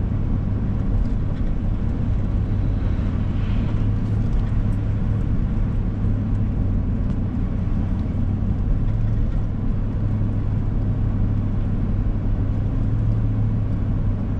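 Steady road noise of a car being driven, heard from inside the cabin: a continuous low drone of engine and tyres.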